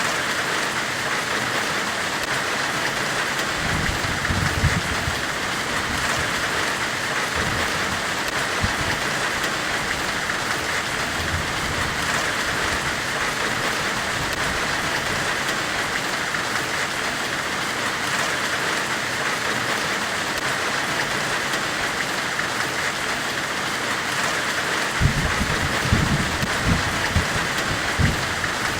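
Steady forge hiss, an even white-noise wash strongest in the upper middle. Low rumbling comes in briefly about four seconds in and again near the end, with a few short pops.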